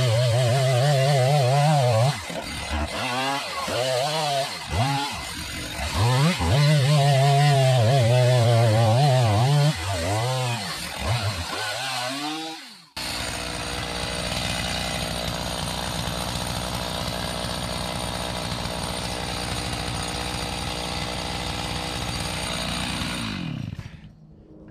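Stihl MS 290 Farm Boss two-stroke chainsaw cutting into an alder trunk, its pitch rising and sagging repeatedly as the chain bites, with a chain dull enough that the cut goes poorly. About halfway through the sound cuts abruptly to a steady, even saw run, which drops in pitch and stops shortly before the end.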